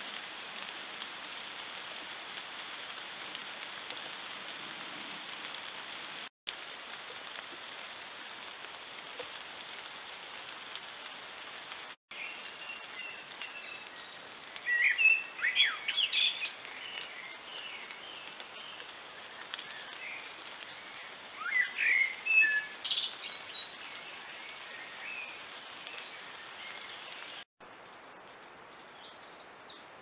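Wild birds calling and chirping in short, rapid notes, in two spells a few seconds apart, over a steady hiss.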